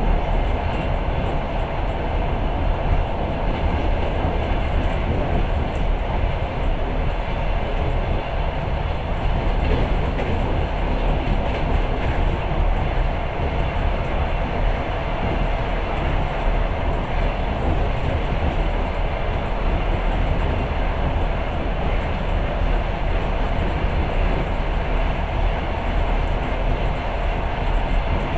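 Passenger train carriage running at speed, heard from inside the coach: a steady, unbroken noise of wheels on rail with a strong low rumble underneath.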